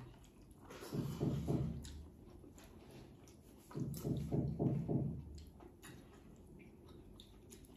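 Close-up eating sounds: chewing, with small wet mouth clicks. A low, muffled, closed-mouth humming comes twice, about a second in and again at about four seconds.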